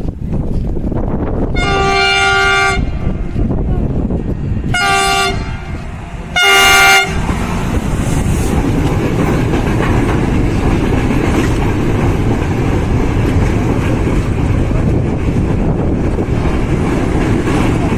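Freight train passing and sounding its horn three times, one long blast then two short ones, over the steady rumble of the train.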